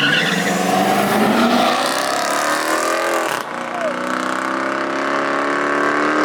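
Car engine accelerating hard, its pitch climbing steadily over several seconds, with a hiss of tyre and crowd noise; the sound changes abruptly about three and a half seconds in.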